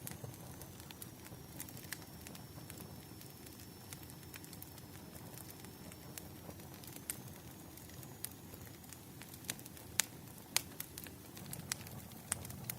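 Wood fire crackling: irregular sharp pops and snaps over a low steady rumble, with two louder pops about ten seconds in.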